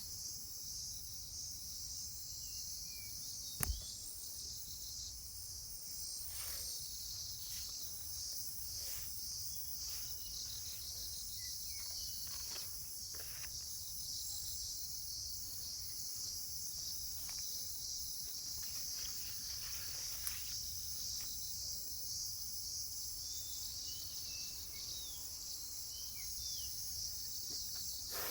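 A steady, high-pitched chorus of insects, with a few short bird chirps and one sharp click about four seconds in.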